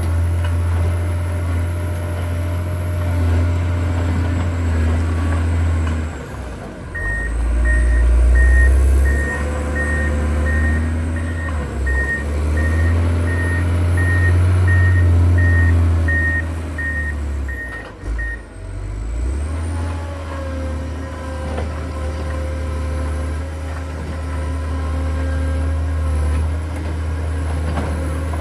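John Deere 670 motor grader's diesel engine running under load, its pitch rising and falling as the machine works. From about seven seconds in, its reversing alarm beeps steadily, about one and a half beeps a second, for around eleven seconds, then stops.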